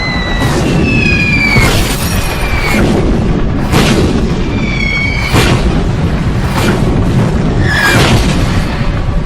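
Film soundtrack of explosions: a continuous heavy rumble with a sharp boom about every second, and short whistling tones that fall slightly in pitch, over music.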